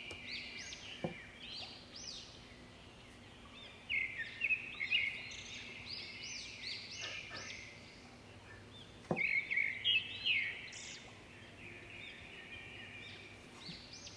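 Several small birds chirping in quick repeated arching notes, in busier spells about four seconds and nine seconds in.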